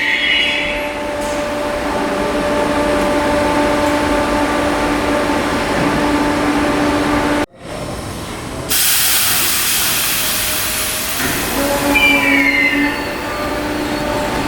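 Merseyrail PEP electric multiple unit at the platform, its electrical equipment giving a steady hum of several held tones. About halfway the sound briefly drops out, then a loud hiss runs for a couple of seconds, followed by a short squeal.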